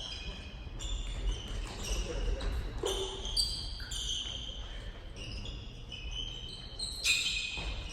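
Basketball shoes squeaking on a gym floor during play: many short, high squeaks, with ball bounces and thuds underneath. The loudest cluster of squeaks comes about seven seconds in.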